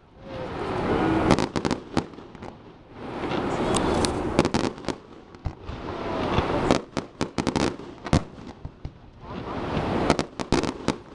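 Fireworks display: many sharp bangs and pops in quick clusters, over a crackling hiss that swells and fades every few seconds.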